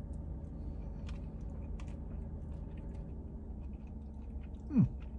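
A man chewing a mouthful of soft egg noodles and steak, with faint wet mouth clicks over a steady low hum. Near the end he gives a short falling "mm".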